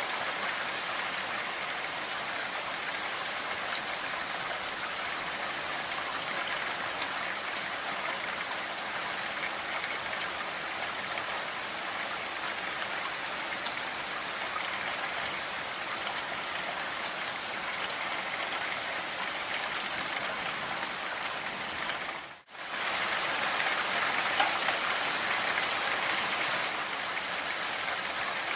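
Steady, heavy rain falling. About three-quarters of the way through it drops out for a split second, then comes back a little louder.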